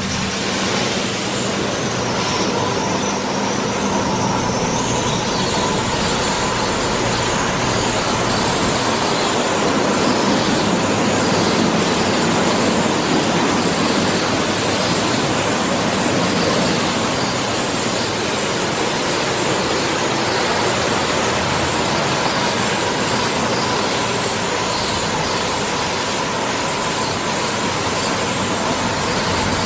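Oasis Baywash i5 in-bay automatic car wash running: a steady rush of spraying water and machinery noise with a faint steady whine through it.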